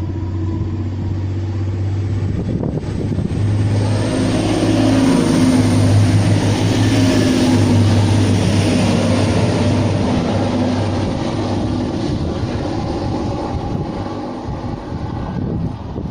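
A train passing, its steady low hum and rushing noise growing to their loudest about halfway through and then fading.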